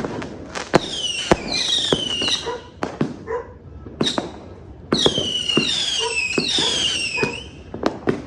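Fireworks going off in quick succession: sharp bangs and several overlapping shrill whistles, each falling in pitch. They come in two bursts with a lull of about two seconds between them.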